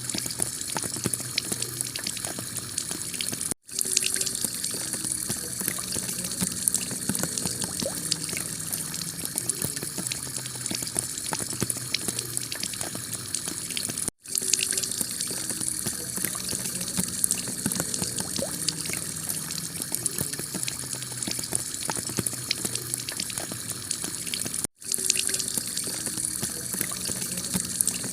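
Heavy rain pelting a clay-tile roof: a dense, steady patter of countless drops. The sound cuts out for an instant three times, about ten seconds apart.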